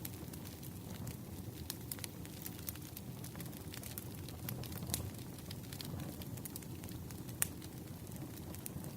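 Wood campfire crackling, with irregular sharp pops over a low steady rumble of the flames; one louder pop comes about seven and a half seconds in.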